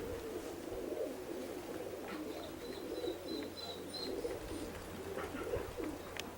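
Racing pigeons cooing in a steady, overlapping murmur, with a faint thin high chirping for a couple of seconds midway.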